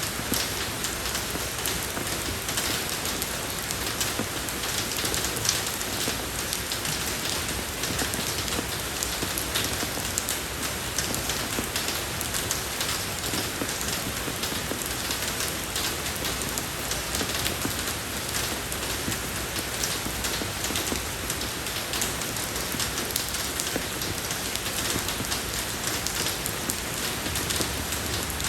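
Steady rain falling on a road surface, a dense even patter of drops with fine ticks of individual drops.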